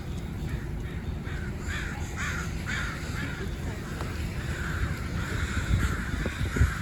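A large flock of birds in the trees calling at once, many short calls overlapping.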